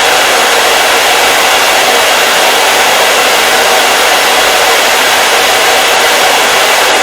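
Hair dryer running steadily, an even blowing noise with a faint steady hum and no change in speed.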